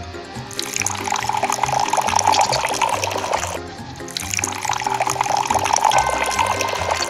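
Background music over a steady trickle of liquid: grape juice running from a miniature DIY juice machine's spout into a small glass. The trickle dips briefly about halfway through.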